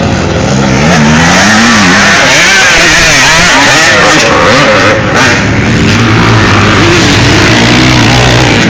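Vintage motocross motorcycles racing, loud, several engines at once, their pitch constantly rising and falling as the riders work the throttle and change gear.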